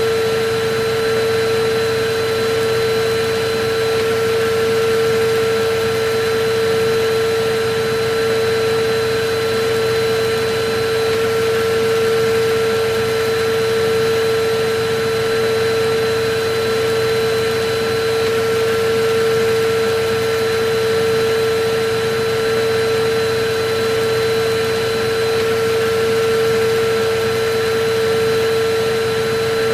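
Electric vacuum cleaner running steadily, a constant motor whine over an even rush of air, with no change in pitch or level.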